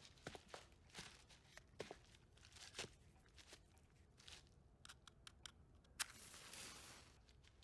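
Footsteps on a hard floor, dense at first and then sparser. About six seconds in comes a sharp click, followed by roughly a second of hissing.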